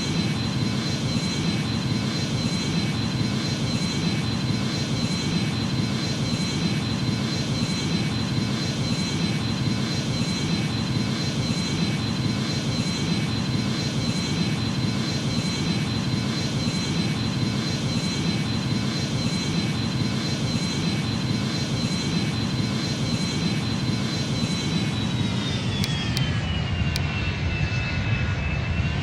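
Boeing 737 jet engines running at high power: a steady roar with a high fan whine. About 25 seconds in the whine drops in pitch as the thrust eases, then begins rising again near the end.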